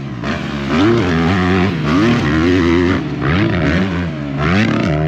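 Two motocross dirt bikes racing, their engines revving up and easing off about four times in a row.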